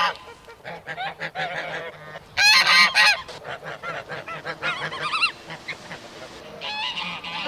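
Geese honking: a run of repeated calls, with the loudest cluster about two and a half seconds in.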